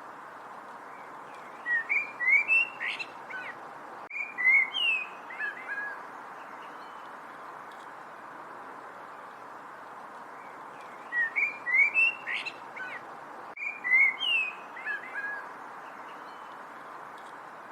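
A songbird singing two phrases of quick, whistled, sliding chirps about nine seconds apart, the second phrase the same as the first. A steady hiss runs underneath.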